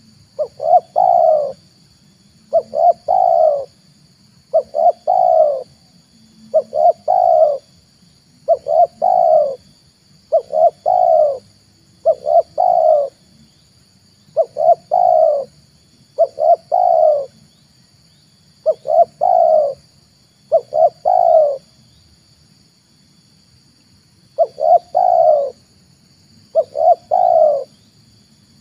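Spotted dove (tekukur) cooing: a short multi-note coo phrase repeated about every two seconds, with one longer pause a little past the middle. It is a lure call for drawing wild doves.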